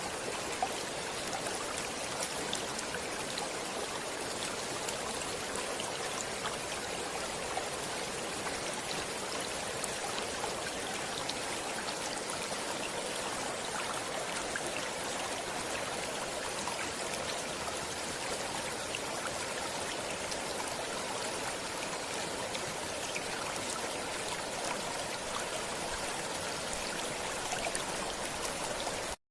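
Stream water flowing steadily, an even rushing sound with many fine splashes in it. The sound drops out for a moment at the very end.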